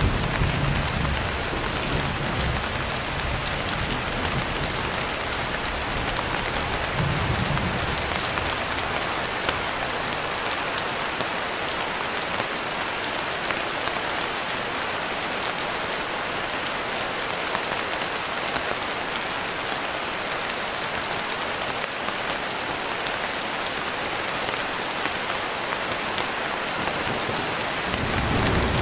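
Steady rain falling, an even hiss. A low thunder rumble dies away over the first few seconds, a brief low swell comes about a quarter of the way in, and another rumble starts building near the end.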